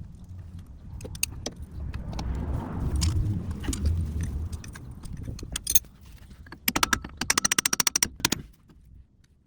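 Metal tools at work on the drive shaft: clinking and scraping, then a run of rapid, evenly spaced clicks about a dozen a second, a little past two-thirds of the way in.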